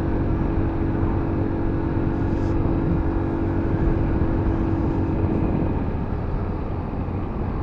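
A 125 cc motorcycle riding along, its engine running steadily under wind and road noise. A steady hum in the engine note stops about six seconds in.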